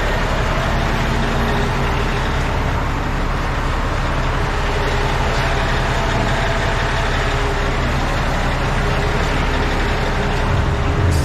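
Truck engine idling steadily, a constant low running sound with no changes.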